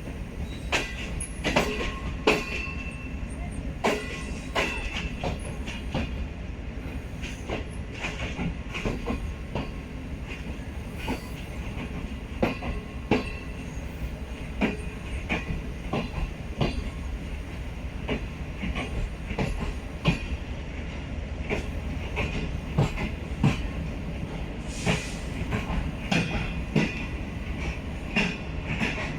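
Train wheels rolling along the track, with a steady low rumble and many sharp clicks as the wheels cross rail joints, and a faint high wheel squeal.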